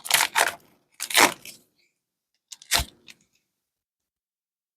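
Trading cards and a foil card-pack wrapper being handled: three short scraping rustles, the last with a light knock, then silence.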